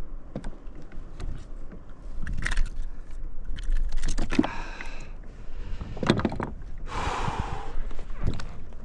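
Gear being handled on a kayak: scattered clicks, knocks and rattles with scraping, and a short hiss about seven seconds in.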